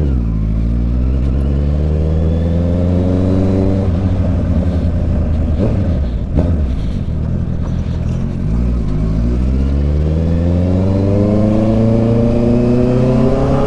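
Honda CB650 inline-four motorcycle engine under way, pulling up in revs for a few seconds, easing off through the middle, then climbing steadily again near the end.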